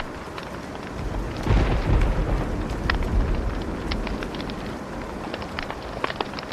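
Wood fire crackling with sharp pops over a steady hiss, while a low rumble of thunder swells about a second in and fades away over the next few seconds.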